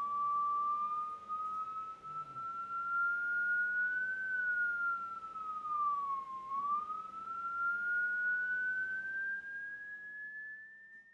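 A single pure sine test tone played through a loudspeaker under test, gliding slowly up in pitch, dipping back down about six seconds in, then rising again, with a faint overtone above it. It fades out at the very end.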